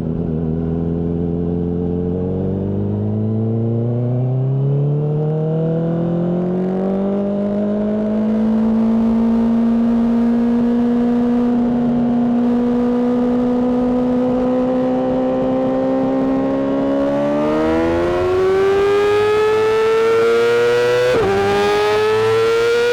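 Honda CBR600RR inline-four engine through a Mivv exhaust, pulling under acceleration: the pitch climbs, holds nearly steady for several seconds, then climbs again. Near the end it drops for a moment, an upshift, and keeps rising.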